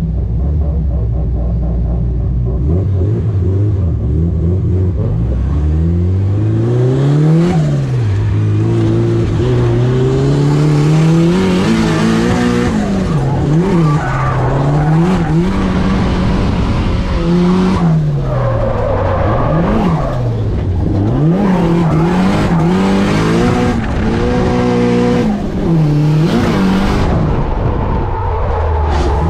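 Turbocharged SR20DET four-cylinder engine of a Nissan Silvia drift car (TD06 turbo), heard from inside the cabin. It runs at a steady low note for the first few seconds, then the revs climb and drop sharply over and over as the car is driven sideways, with tyre squeal.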